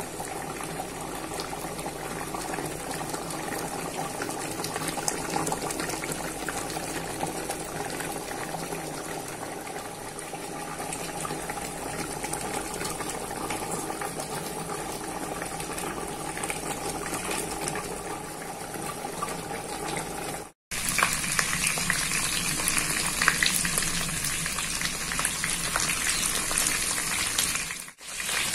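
Chicken pieces cooking in oil and their own juices in a pot, bubbling and sizzling steadily. After a sudden cut about two-thirds of the way in, the sizzle comes louder and crisper, with sharp spitting crackles.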